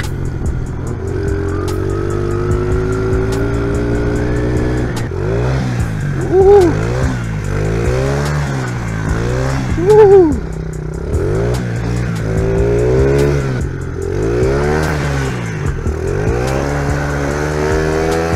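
Honda XR70R pit bike's small single-cylinder four-stroke engine running. It holds a fairly steady speed, then from about five seconds in is revved up and down over and over, peaking loudest twice.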